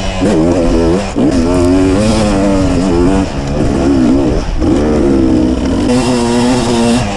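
Two-stroke enduro dirt bike engine revving up and down over and over as the throttle is worked, its pitch rising and falling every second or so.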